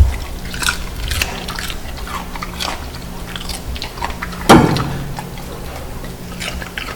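A dog crunching and chewing pieces of raw cucumber, with irregular crisp bites and one louder crunch about four and a half seconds in.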